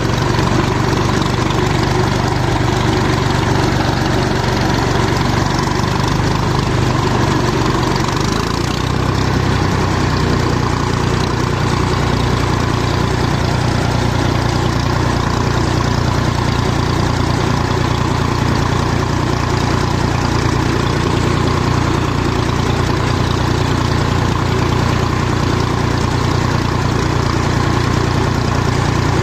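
Massey 35 tractor's diesel engine running steadily while driving, with a slight change in its low note about nine seconds in.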